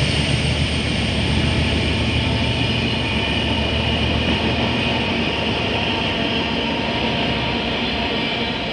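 A train running through the station, loud and steady, slowly fading as it moves away.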